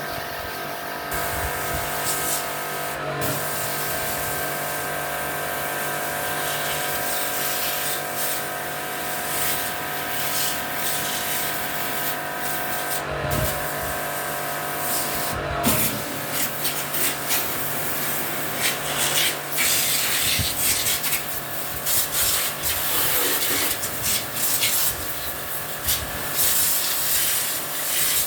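A steady machine hum with irregular rubbing and spraying noise over it, with the scrubbing strokes growing busier in the second half.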